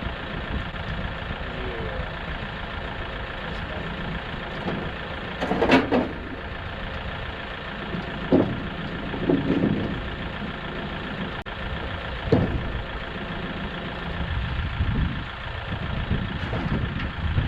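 A vehicle engine idling steadily, with a few short knocks or clunks over it.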